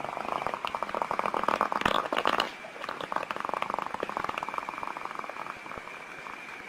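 A baby passing gas: a long, sputtering fart made of rapid pulses, loudest about two seconds in. After a brief break comes a second, quieter stretch of sputtering.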